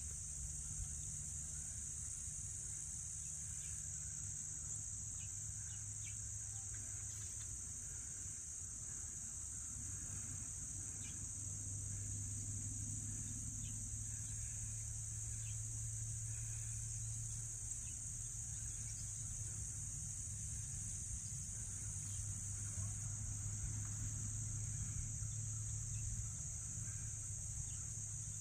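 Steady, unbroken high-pitched insect chorus of crickets, with a low steady rumble underneath and a few faint short chirps.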